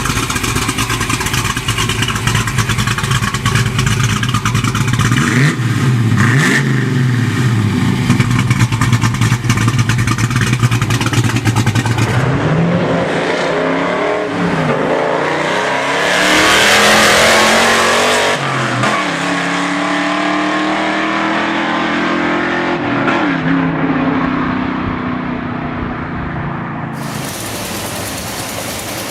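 A 1960s muscle car's V8 engine running with a steady beat, then revved several times, its pitch rising and falling with each blip.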